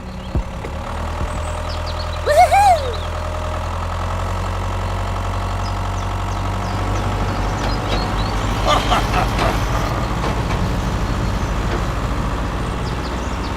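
Truck engine running steadily, with a brief high squeal that rises and falls about two seconds in.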